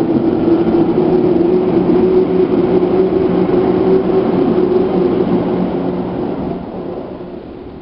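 Running noise heard inside a Seibu New 2000 series electric train's motor car: steady rumble of wheels on rail with a steady motor and gear hum. About six seconds in it begins to fade, as the train slows.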